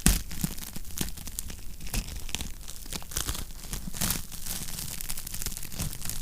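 Wood fire crackling in a fireplace: irregular sharp pops and snaps over a low rumble of the burning logs, with a louder pop right at the start.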